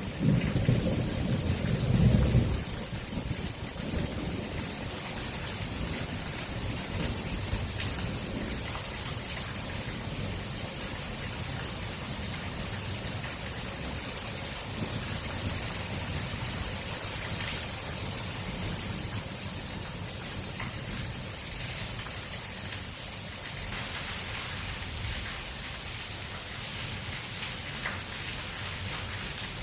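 Heavy rain pouring steadily in a thunderstorm, with a low rumble of thunder in the first couple of seconds. The rain's hiss grows heavier about three-quarters of the way through.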